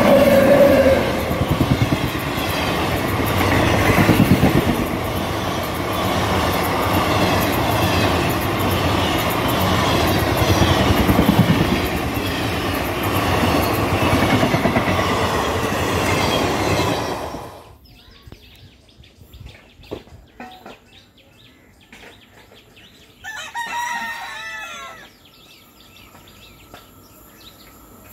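Indian Railways electric locomotive and passenger coaches passing close by, the wheels clattering over the rails in a steady beat for about 17 seconds before the sound cuts off suddenly. A rooster crows once in the quiet that follows, about 23 seconds in.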